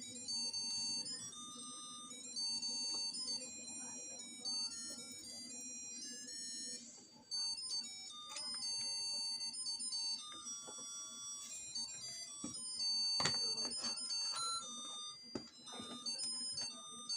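Tinny electronic chip melody of stepped, beeping single notes over a steady low hum, with a few sharp clicks about three-quarters of the way through.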